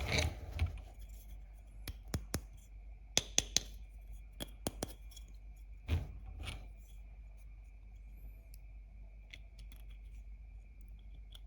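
Sharp clicks and taps of small plastic toy kitchen pieces being handled and set down, closely grouped in the first half and sparse in the second.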